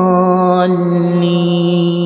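A male Quran reciter's voice holding one long vowel at a steady pitch, the drawn-out prolongation (madd) of melodic tajweed recitation.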